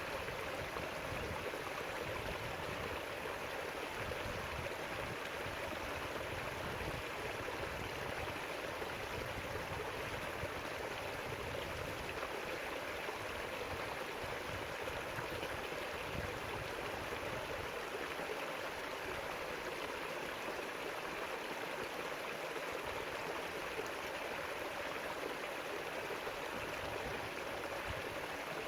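River water flowing over rocks in a steady, even rush, with no breaks or distinct splashes.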